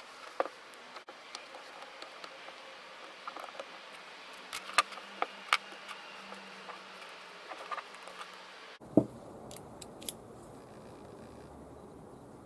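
Scattered small clicks and taps of hard parts being handled, with a few sharper clicks about five seconds in and a louder knock about nine seconds in.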